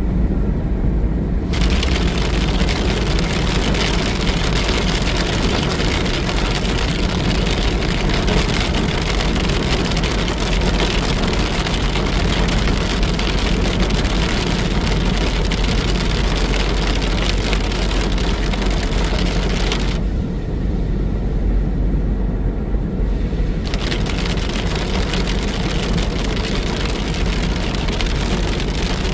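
Moderate rain falling steadily as a loud hiss, over the low rumble of a car. The rain hiss drops away for about three seconds around two-thirds through, leaving the rumble, then returns.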